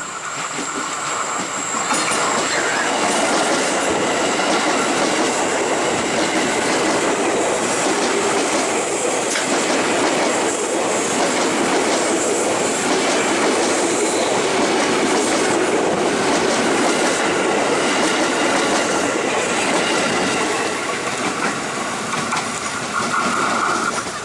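KRL Commuter Line electric commuter train passing close by, its wheels clattering over the rail joints. The sound builds over the first couple of seconds, holds steady, and eases off near the end.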